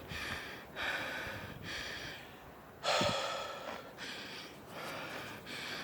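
A person breathing hard from exertion while climbing a steep trail: a series of heavy, rasping breaths, about five or six, the loudest a sharp intake about three seconds in.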